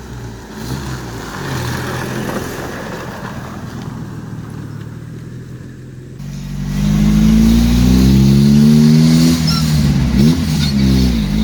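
Custom wrecker truck's engine running as it drives, then speeding up louder about six seconds in, its note climbing. Near the end the pitch briefly dips and rises again.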